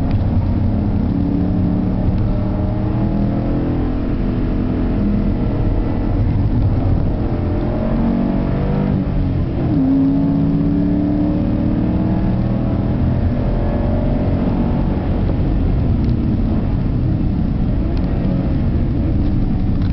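Car engine heard from inside the cabin while the car is driven hard around a race track, its pitch rising and falling with the revs over road and wind rumble. About halfway through the revs drop briefly, then climb steadily again.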